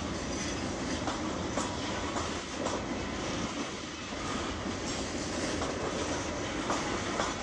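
Loaded coal hopper cars of a slow freight train rolling past, the steel wheels clacking steadily over the rail joints with a few sharp clicks.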